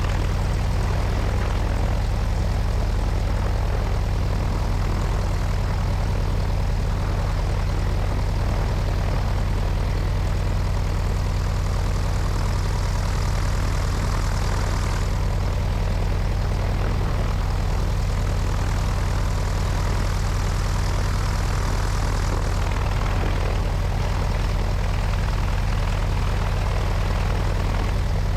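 Cessna 172's piston engine and propeller running steadily in flight, with wind rushing over a wing-mounted microphone.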